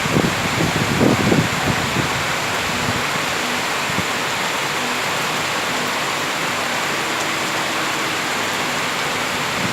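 Heavy rain falling steadily, a dense even hiss, with a few low rumbling surges in the first couple of seconds.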